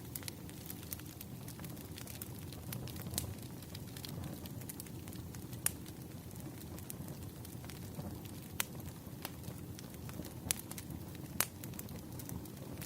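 Campfire crackling: a steady low rumble of burning wood with scattered sharp pops and snaps, a few louder ones near the middle and end.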